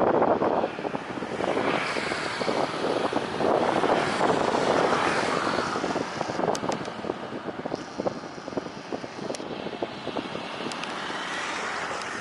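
Jet airliner engines, a steady rushing noise with faint whining tones that bend in pitch, mixed with gusty wind buffeting the microphone.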